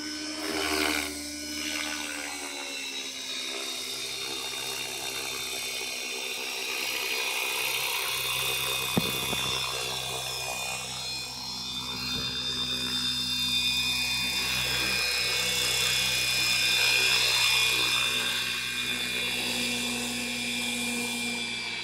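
Electric RC helicopter (Align T-Rex 550E) in flight: the motor whine and rotor hum run continuously, rising and falling a little in pitch and loudness as it manoeuvres, with one sharp tick about nine seconds in.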